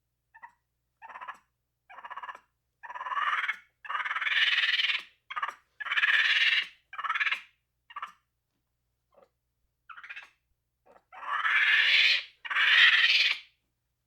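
A series of animal cries with silence between them: short ones first, then louder, longer cries lasting up to about a second and a half, in two loud groups.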